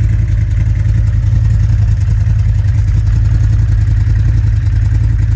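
2016 CFMoto ZForce 800EX side-by-side's V-twin engine idling steadily through a custom Flowmaster exhaust.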